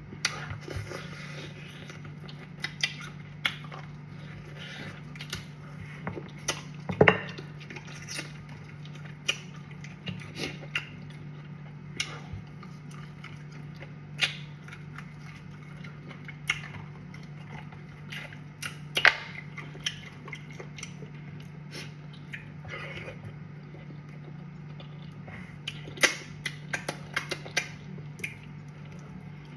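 A person eating cassava fufu and soup: chewing and wet mouth sounds with scattered sharp clicks and smacks, over a steady low hum.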